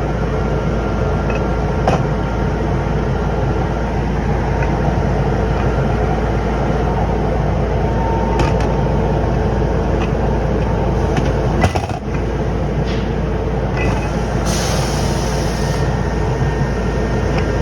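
Steady, loud drone of running workshop machinery with a deep hum, broken by a few sharp metal knocks and a short hiss about fifteen seconds in.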